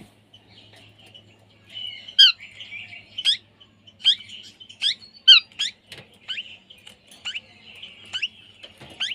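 Parrot giving about ten short, shrill squawks at irregular intervals, with soft chattering between them; the loudest calls come about two and five seconds in.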